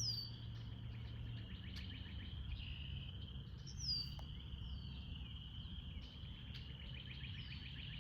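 Outdoor nature ambience: a steady, pulsing insect trill, with a bird giving a short high whistle that slides downward in pitch a few times. A low steady rumble sits underneath.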